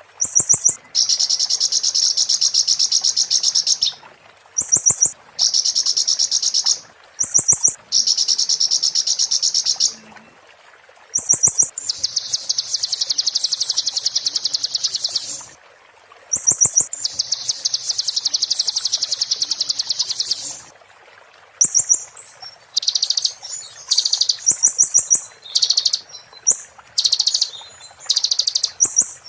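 A konin songbird singing its "muntah beling" song: a short high note, then a long, very fast, high-pitched trill lasting a few seconds, repeated with short pauses. Near the end the phrases break into shorter, choppier bursts.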